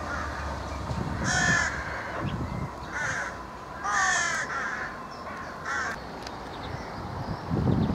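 A bird calling four times with short, harsh calls, over a low rumble. Near the end, the rumble of a Southern Class 377 electric train's wheels on the pointwork grows louder.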